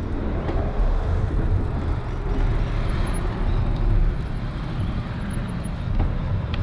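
Road traffic noise mixed with a low, fluttering wind rumble on the microphone of a camera on a moving bicycle.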